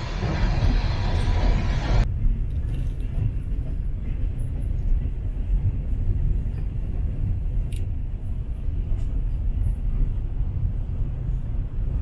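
Steady low rumble of a passenger train running along the track, heard from inside the carriage. For about the first two seconds, background music plays over it, then stops abruptly.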